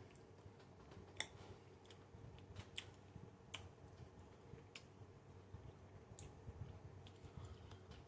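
Near silence: room tone with several faint, sharp clicks, roughly one every second or so.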